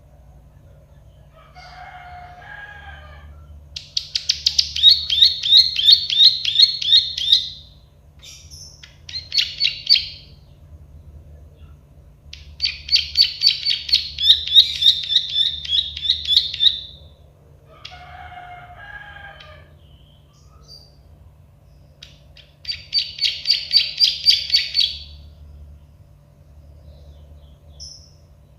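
Prenjak sawah (a field prinia) singing its 'klik-klik' song: four bouts of fast, evenly repeated sharp high notes, each lasting a few seconds with pauses between, with two softer, lower warbled phrases before the first and third bouts. A steady low hum runs underneath.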